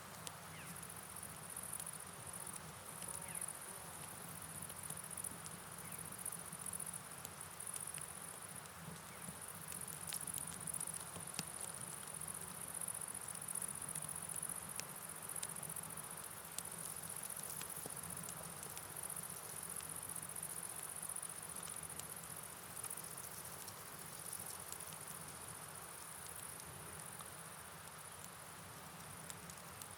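Steady night rain ambience: soft rain patter with scattered drip ticks over a low, even rush of flowing river water, under a continuous high, shrill, slightly pulsing hiss.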